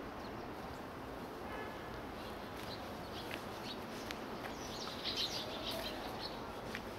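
Small birds chirping now and then, short high chirps clustering about five seconds in, over a steady hum of city background noise.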